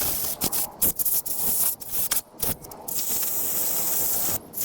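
Compressed air blowing dirt out of a lawn mower's air filter: a series of short hissing blasts, then a longer steady blast near the end.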